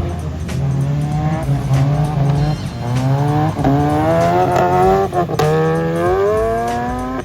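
Drift car's engine held at high revs, its pitch climbing several times and rising steadily through the last few seconds as the car slides, with tyre noise and background music underneath.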